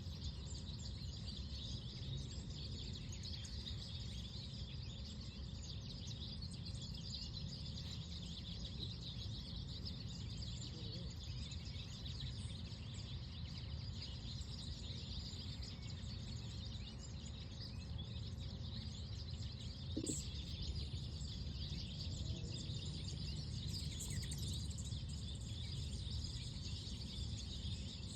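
Outdoor park ambience: many small birds chirping continuously over a steady low wind rumble, with a single brief click about twenty seconds in.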